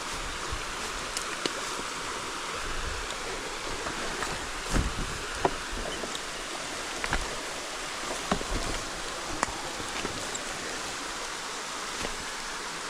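Steady rushing hiss with scattered sharp clicks and a few soft knocks.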